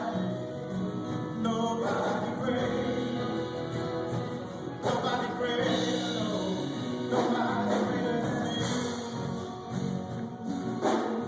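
A group of voices singing a gospel-style song together, in sustained phrases.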